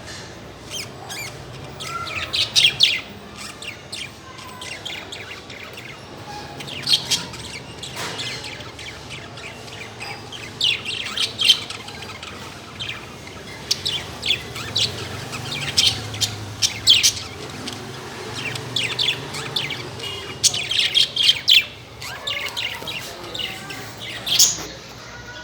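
Lovebirds and budgerigars in a small cage chirping: clusters of sharp, high chirps every second or two, over a faint low hum.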